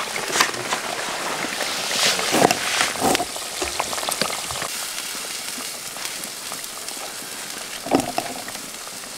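Burger patties and fries frying in hot oil, a steady sizzle, with a few short knocks of cookware or utensils.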